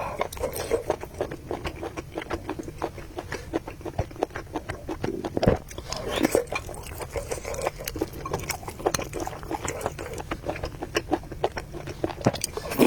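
Close-miked chewing and biting of noodles, a long run of quick, wet mouth clicks and smacks.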